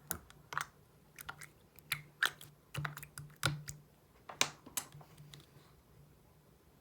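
Slime being squished and pressed by hand, giving an irregular run of short, sticky clicks and pops that thin out near the end.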